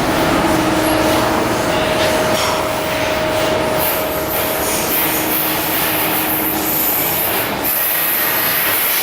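Shipyard work noise: a steady machine hum under rough scraping, joined about four seconds in by a loud high hiss that breaks off briefly near the end.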